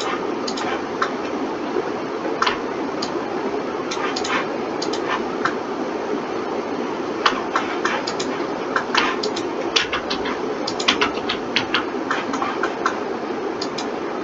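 Irregular clicking of a computer mouse and keyboard, sometimes in quick clusters, over a steady computer fan hum.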